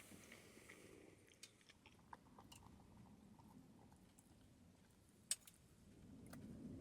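Near silence with a few faint clicks and small knocks of breakfast being eaten, the sharpest about five seconds in.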